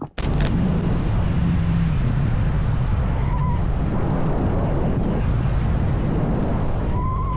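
Motorcycle riding at speed, its engine a steady low hum under a loud, even rush of wind and road noise.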